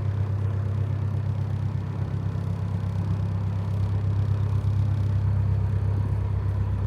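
Narrowboat's diesel engine running steadily at idle, a low even hum.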